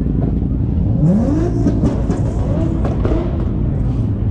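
Car engines running with a deep steady rumble, one of them revving up in a quick rising sweep about a second in.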